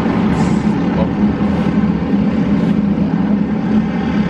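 Briggs & Stratton kart engines running on the track, a steady drone of several karts lapping with no single pass standing out.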